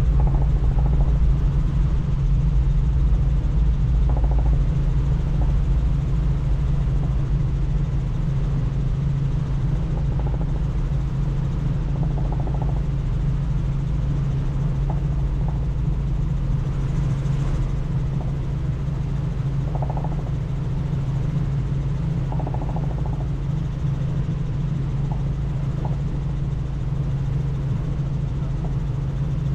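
Helicopter in flight, heard from inside the cabin: a steady, unbroken drone of the rotor and engine.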